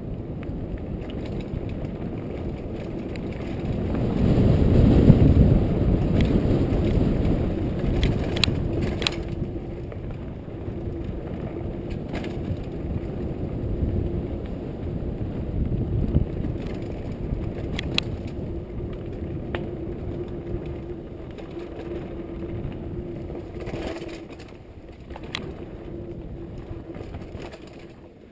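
Trek Fuel EX8 mountain bike riding over a rough dirt trail: tyres rumbling on the ground and the bike rattling, loudest about four to seven seconds in, with sharp knocks scattered through and a steady low hum through much of the ride.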